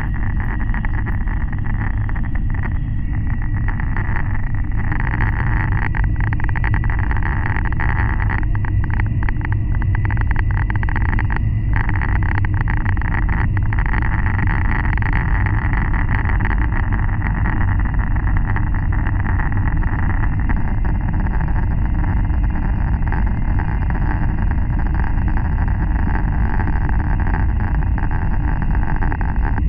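Steady running noise of an N700 Series Shinkansen heard from inside the car at speed: a low rumble with a constant hiss above it.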